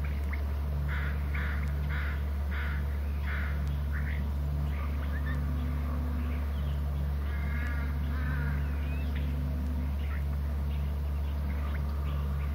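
Wild birds calling over a steady low hum: a run of about six short calls spaced roughly half a second apart a second or so in, a longer call near the middle, and a few scattered short chirps.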